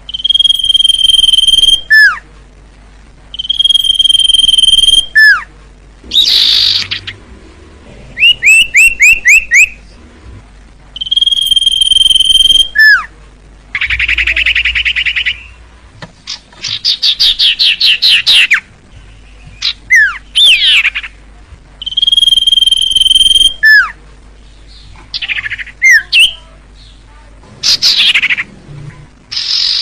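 Common iora (cipoh) singing: long, steady, high whistles, each ending in a quick drop in pitch, repeated every few seconds. Between them come fast rattling trills and rapid runs of short notes.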